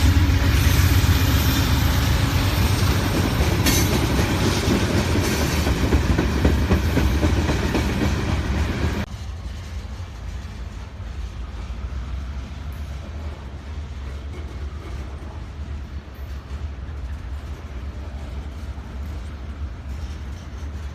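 Freight train rolling past, with wheels clacking over the rails. About nine seconds in it cuts off abruptly to a much quieter, steady low rumble.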